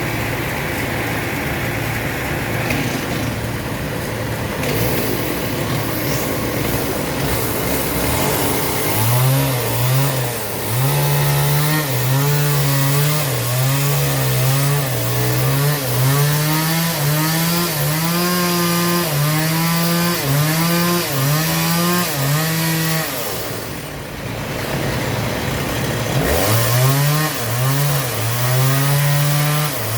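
Engine-driven saw cutting through a large log. It starts as a steady noisy whir, then a labouring engine note wavers up and down under the cutting load. The note drops away for a few seconds about three-quarters through, then picks up again.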